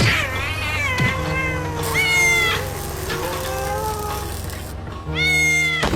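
Domestic cat meowing several times, the calls wavering and bending in pitch, over background music.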